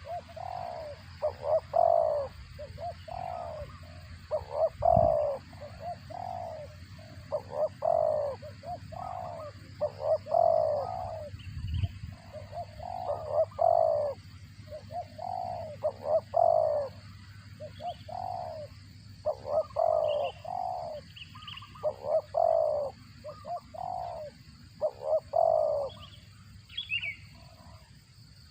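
Spotted dove cooing over and over in short repeated phrases, with a few faint high chirps in between.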